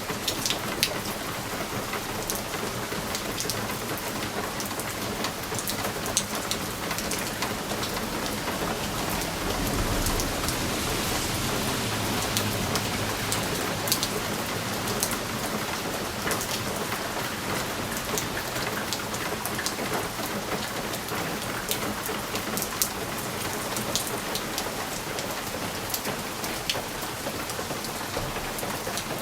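Steady rain pattering on window glass, with many sharp individual drop ticks over an even hiss. About ten seconds in a low rumble swells for a few seconds, like distant thunder.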